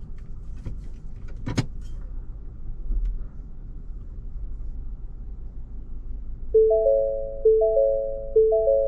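Vehicle warning chime sounding three times, about a second apart, each a short three-note chime, over the low rumble of the engine heard inside the cabin. A sharp click comes about a second and a half in.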